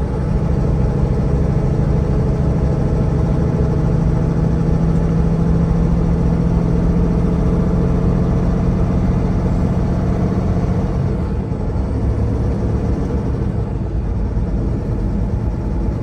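Tractor-trailer's diesel engine running steadily under way, with road noise. The engine's steady note changes and eases about eleven seconds in.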